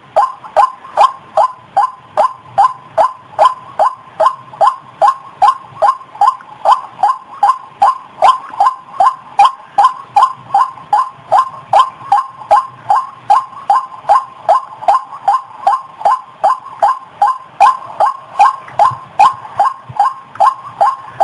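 White-breasted waterhen (ruak-ruak) call repeated over and over, about two to three short notes a second in an unbroken, very even rhythm. It is a lure call for drawing in waterhens.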